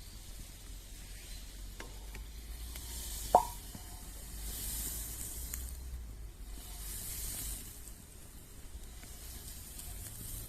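French toast sizzling as it fries over a campfire, the hiss swelling and easing in waves. One sharp click about three and a half seconds in.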